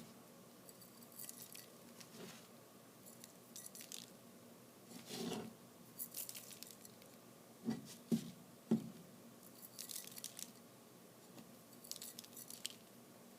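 Faint handling sounds of glitter being sprinkled from a small container: short, light shaking rattles every couple of seconds, with three light knocks on the table about eight seconds in.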